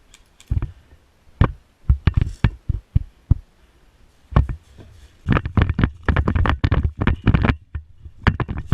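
Irregular knocks and thumps, a few a second, that quicken into a fast, dense run of them past the middle.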